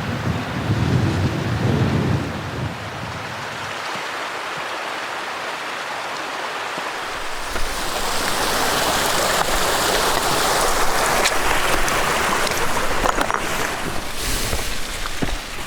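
Wind buffeting the microphone for the first couple of seconds, then the steady rush of a stream, which comes in about halfway and grows louder. A few sharp clicks sound near the end.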